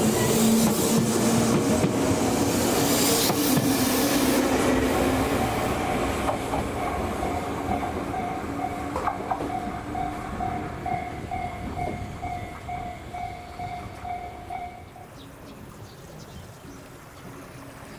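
Tobu Isesaki Line electric train running, its noise fading steadily. A steady high whine runs through the middle and stops about fifteen seconds in.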